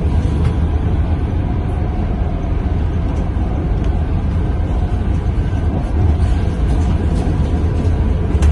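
Scania K230UB city bus heard from inside the cabin while under way: the rear-mounted five-cylinder diesel engine and road noise make a steady low rumble.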